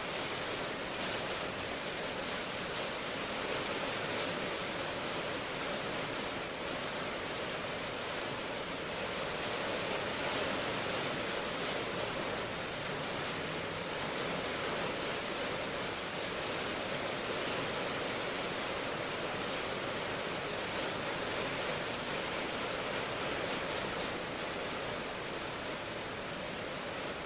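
Steady rain ambience: an even, continuous hiss of falling rain with fine pattering, no single drops standing out.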